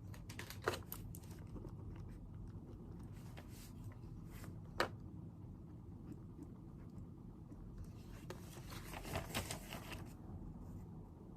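Desk sounds of someone studying: a few faint sharp taps, then about two seconds of rustling and scraping near the end, over a low steady room hum.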